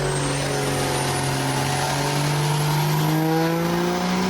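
Turbodiesel truck engine running hard and steady, its pitch climbing slowly, with a high turbo whistle that rises the whole time.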